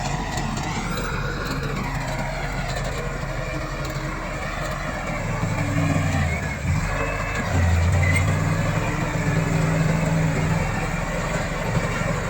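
Bulldozer diesel engine running while the dozer works, its pitch and loudness rising about five seconds in and highest in the middle of the stretch, as it comes under load.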